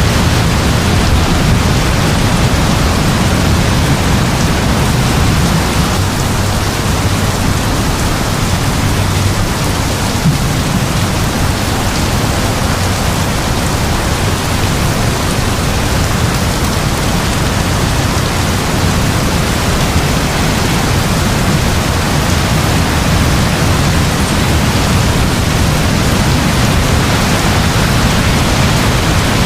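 Heavy rain falling steadily, a dense even hiss with a deep, constant low rumble underneath.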